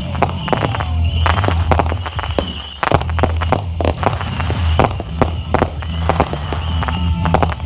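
Fireworks display going off in a rapid, dense string of bangs and crackles, many a second, over a steady low hum.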